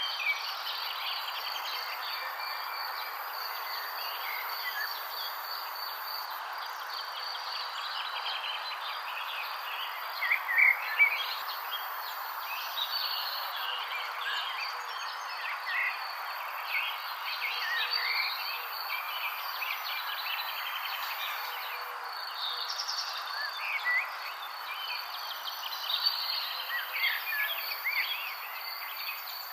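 Steady high trilling of crickets or other insects, with birds chirping on and off over it; a burst of louder bird calls comes about ten seconds in.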